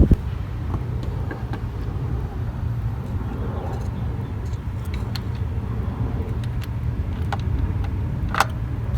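A few light clicks and knocks as a replacement distributor is slid into place on the engine, over a steady low hum.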